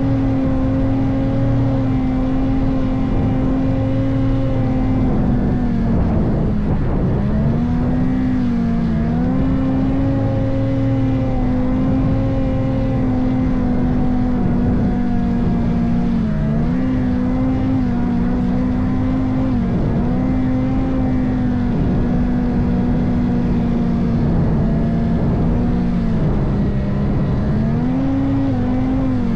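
Ski-Doo turbo snowmobile engine running hard at steady high revs, its pitch dipping and climbing back several times as the throttle eases and reopens.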